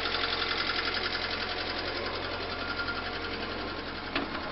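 VAZ 2111 engine idling on its first start, with a fast, even ticking rhythm and a note the owner calls not very pleasant. A sharp click sounds near the end.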